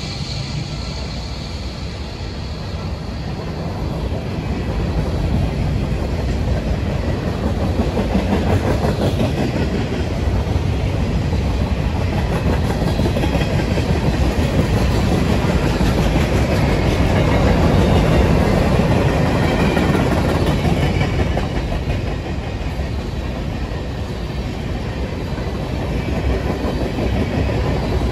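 A train rolling past, its cars' wheels running over the rails, growing louder about four seconds in.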